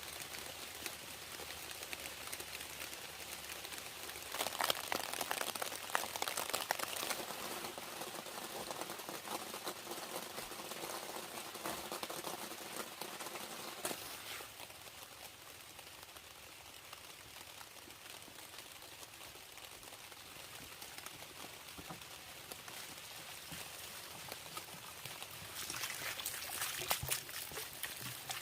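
Rain pattering and dripping, a dense patter of fine drops. It grows louder and denser for about ten seconds from around four seconds in, and again briefly near the end.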